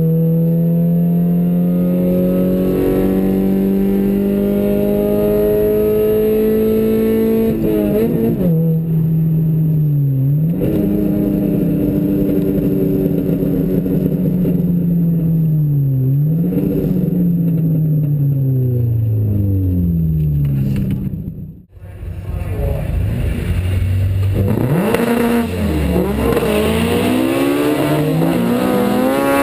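Chevy Cobalt's naturally aspirated 2.2-litre four-cylinder engine under hard acceleration down a drag strip, the pitch climbing and dropping back at two gear changes, then falling slowly as the car slows. After a brief cut about two-thirds of the way through, the engine revs up and down and then climbs again near the end.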